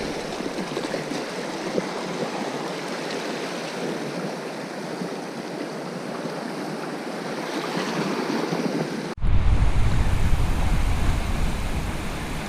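Sea washing over a rocky reef shore, a steady rushing hiss. About nine seconds in it cuts off suddenly and gives way to heavy wind rumbling on the microphone.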